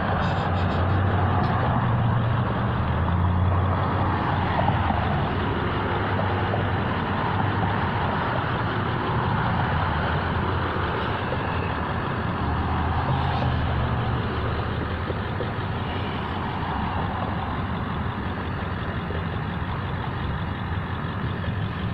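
Steady motor-vehicle noise from the road, a continuous engine-like rumble with a low hum that eases slightly toward the end.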